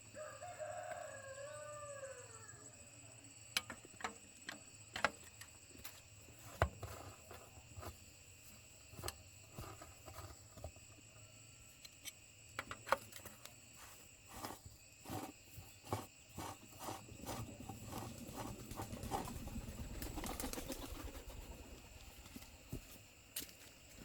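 A rooster crows once at the start, a rising-then-falling call about two seconds long. Irregular sharp clicks and knocks follow, with a rougher rumbling stretch of a few seconds near the end.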